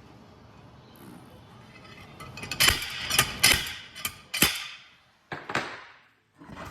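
A run of sharp, ringing metal-on-metal hammer blows on a bearing race, driving the race off a gearbox shaft. The blows start about two and a half seconds in and stop a little before the end.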